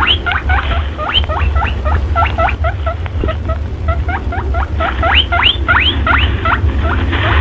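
A group of small animals squeaking and chirping in a rapid, overlapping chorus of short calls that sweep up and down in pitch, over a steady low hum.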